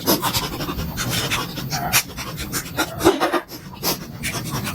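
Close-miked eating sounds of someone chewing momos: irregular wet smacks and clicks of the mouth and teeth.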